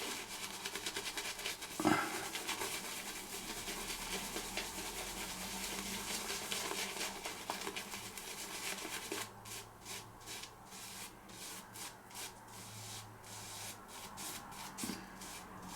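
Straight razor scraping through about six days' stubble, a continuous dry rasp at first, then short strokes about three a second from a little past the middle. A single knock about two seconds in.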